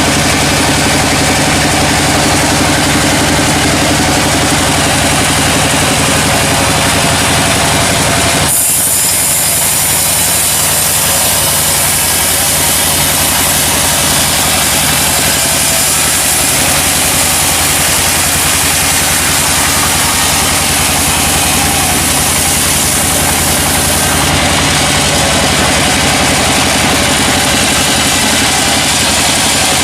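Sawmill machinery running steadily, a motor's hum under the noise of the saw. About eight seconds in, the sound shifts suddenly to a brighter, hissing rush. It shifts back near the end.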